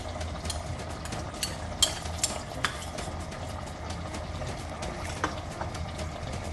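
Chicken, masala and curd gravy boiling in the pot: a steady bubbling with scattered sharp pops and clicks over a low hum.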